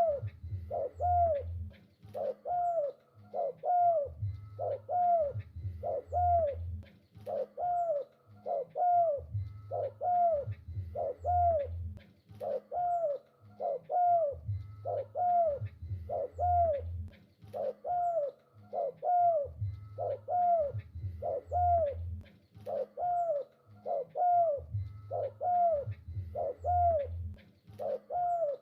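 Spotted dove (tekukur) cooing over and over, a steady series of short falling coos about one to two a second, with a low rumble under some phrases.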